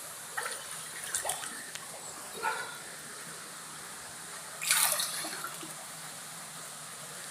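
Splashes of someone wading through deep river water, a few separate strokes over a steady water hiss, the loudest about two-thirds of the way through.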